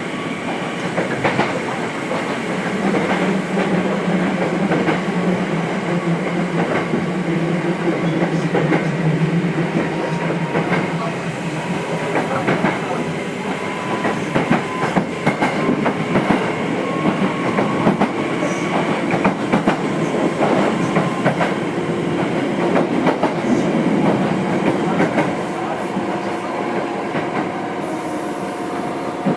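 Nose Electric Railway 5100 series electric train (ex-Hankyu 5100, resistance-controlled) running between stations, heard from inside the car: steady running noise with wheels clicking over rail joints and a low hum in the first several seconds.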